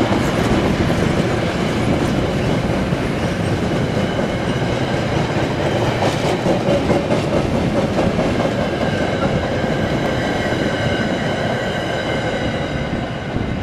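Metra commuter train rolling past on the rails, its wheels clattering over the track, with a faint high ringing from the rails or wheels coming in over the last few seconds.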